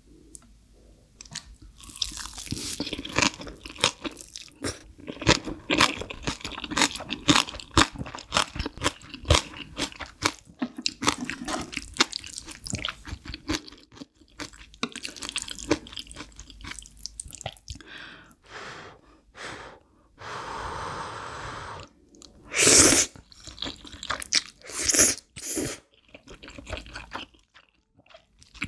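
Close-miked mouth sounds of a person eating black bean noodles, fried egg and green onion kimchi: dense, wet chewing and crunching of the kimchi for the first half, sparser chewing later, with two loud bursts near the end.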